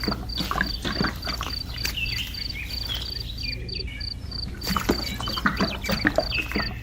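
Irregular clicking and tapping, with short chirping calls and a steady high pulsed chirp repeating about three times a second, typical of a cricket, over a low steady hum.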